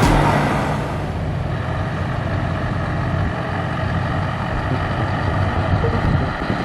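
Truck engine running steadily at low speed, with louder vehicle noise dying away over the first second.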